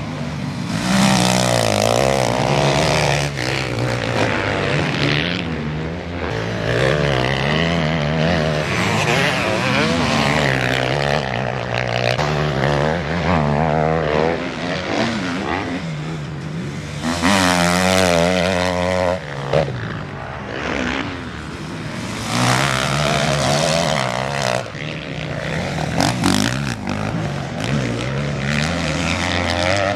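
Motocross bikes racing past one after another, their single-cylinder engines revving up and dropping off as riders shift and throttle through the course. The loudest pass comes a little past the middle.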